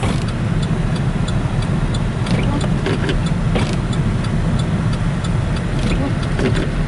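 Steady low road-and-engine rumble heard from inside a moving car's cabin, with a few brief knocks about two to four seconds in.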